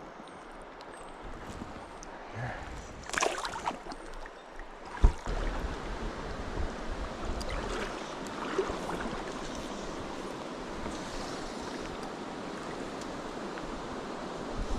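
Steady rush of flowing river water, with a brief rustle about three seconds in and a sharp knock about five seconds in.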